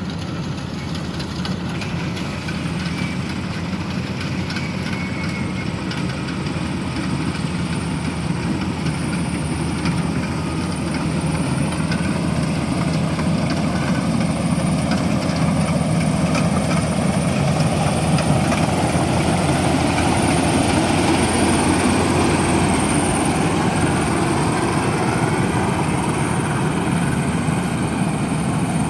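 A World combine harvester running steadily while harvesting rice, its engine and threshing gear growing gradually louder, with a faint high whine above.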